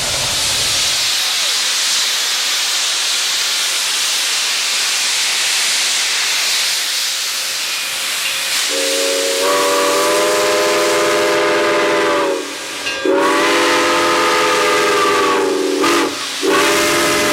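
Steam locomotive, Iowa Interstate 2-10-2 No. 6988, a Chinese-built QJ, venting steam with a loud, steady hiss. About halfway through, its whistle sounds several notes together in long blasts, with two short breaks.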